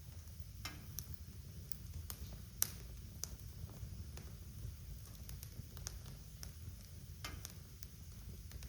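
Wood fire crackling in a fireplace: scattered sharp pops and snaps over a low steady rumble, with one louder pop about two and a half seconds in.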